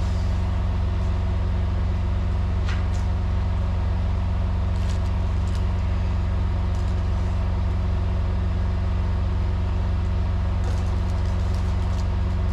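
Semi truck's diesel engine idling steadily, a constant low hum, with a few light clicks and taps over it.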